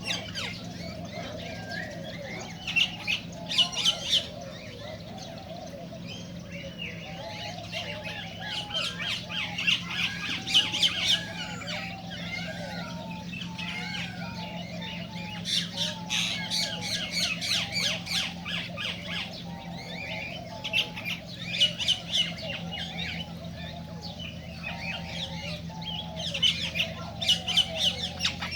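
Cockatiels squawking in repeated loud bouts every few seconds over a continuous chatter of softer chirps and whistled notes. A steady low hum runs underneath.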